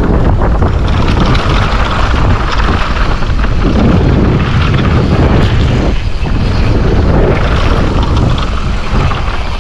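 Steady rush of wind over the microphone with the rumble of mountain bike tyres on a dirt trail at speed, and small rattles and knocks from the bike over the rough ground.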